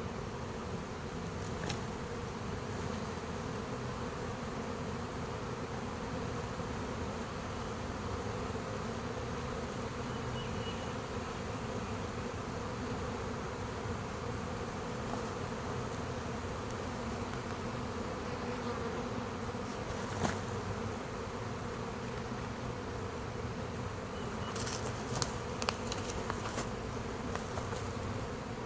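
Dense, steady buzzing of a large honey bee swarm filling the air close around the microphone. A few sharp clicks cut through about two-thirds of the way in and several more near the end.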